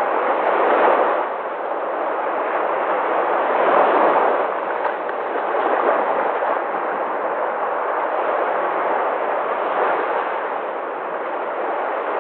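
Sea waves breaking and washing ashore: a continuous rushing that swells louder about a second in and again around four seconds in.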